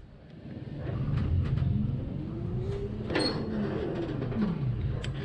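Electric hub motor of a cheap e-bike whining as it is run, the pitch rising, then falling away after a click about three seconds in, over a low hum.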